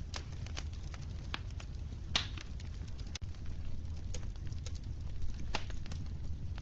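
Wood fire crackling in a fireplace: scattered pops and snaps over a steady low rumble, with one sharper pop about two seconds in.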